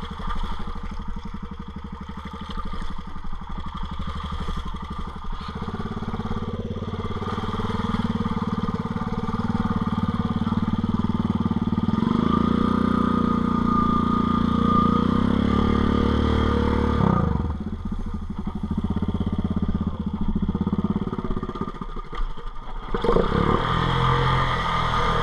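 Four-wheel-drive ATV engine running under load in two-wheel drive, rising in revs several seconds in and holding there. It drops back about two-thirds of the way through, then revs up again near the end.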